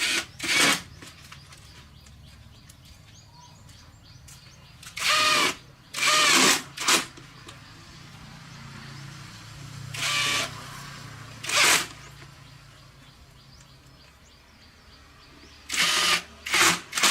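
A small electric power tool run in short bursts of about half a second, eight in all, each with a whine, over a low steady hum.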